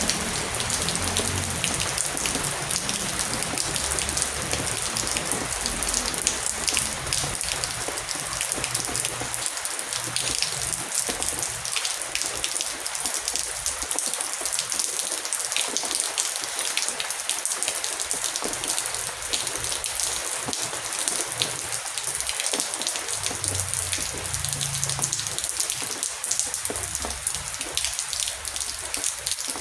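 Heavy rain falling steadily: a dense hiss of rain with many distinct single drop hits standing out.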